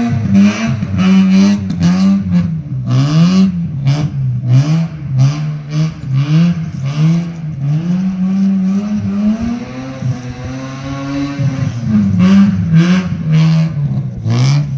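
1984 Mazda RX7 rally car's swapped-in 13B six-port rotary engine revving up and falling back over and over, with short bursts of noise scattered throughout.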